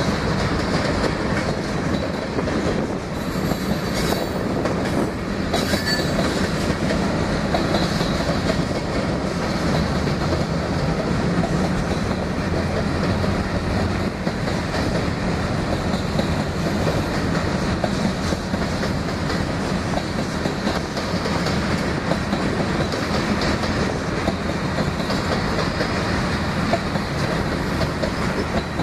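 Freight train of tank cars and covered hoppers rolling past at close range: steady noise of steel wheels running on the rails, with faint high wheel squeals about four to eight seconds in.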